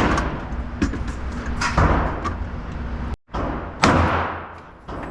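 Gunshots at a firing range: two sharp reports about two seconds apart, each trailing off in a long echo.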